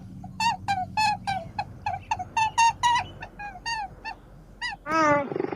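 Puppy yelping and whimpering in a quick run of short, high-pitched cries that each drop in pitch, then one longer, louder, lower cry about five seconds in.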